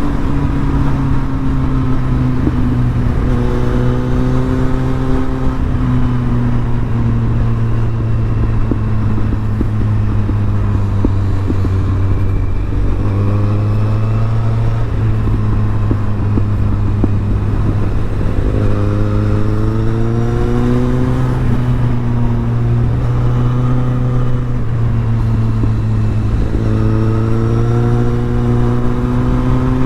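Kawasaki Z800's inline-four engine running through an Arrow titanium exhaust while the bike is ridden. The exhaust note rises slowly in pitch four times and drops back in between.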